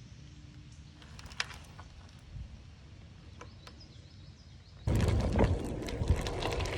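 Quiet with a few faint clicks, then about five seconds in a sudden loud crackling, crunching noise starts and keeps going: bicycle tyres rolling over the trail surface as the bike sets off again.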